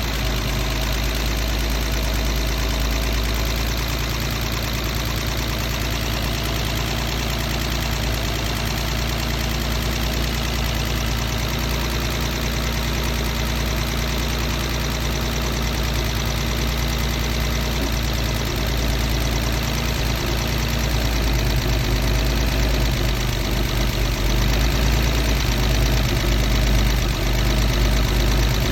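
Mercedes-Benz W114 280CE's straight-six engine idling rough, a steady run that gets slightly louder past the middle.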